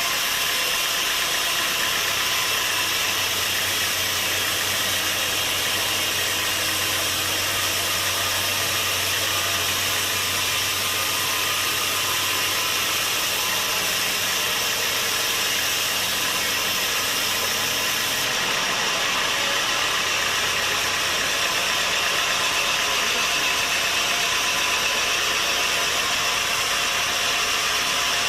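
Sawmill machinery running steadily, a loud constant noise full of high hiss. A low motor hum comes in about two seconds in and drops away around twenty seconds in.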